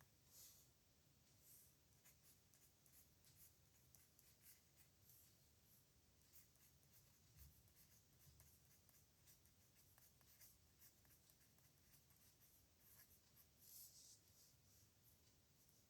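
Faint scratching of a pen nib on paper in many short, irregular strokes, as characters are written by hand, with a couple of louder strokes near the start and near the end.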